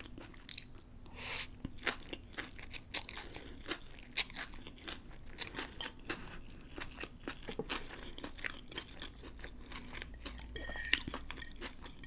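Close-up chewing of pancit bihon noodles with pork and crisp vegetables: irregular wet mouth clicks and crunching.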